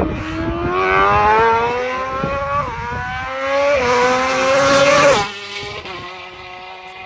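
High-revving motorcycle engine accelerating hard, its pitch climbing and dropping back twice as it shifts up through the gears. A little after five seconds in it cuts off suddenly to a quieter, steadier engine note.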